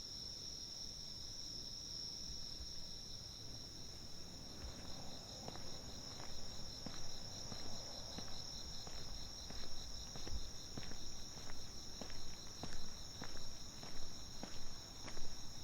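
Crickets chirring in a steady, continuous high-pitched chorus. From about a third of the way in, footsteps come in at an even walking pace and grow louder toward the end.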